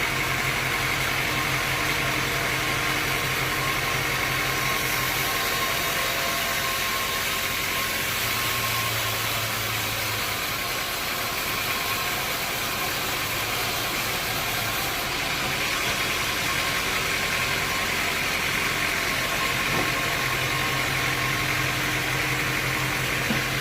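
Sawmill machinery running steadily. A low hum and a high whine fade out for several seconds in the middle and come back near the end.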